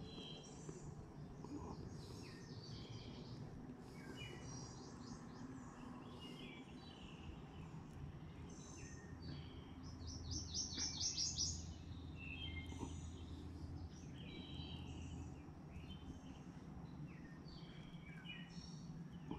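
Wild birds chirping and singing, with short high calls scattered throughout. About ten seconds in, a quick run of rapidly repeated notes is the loudest part.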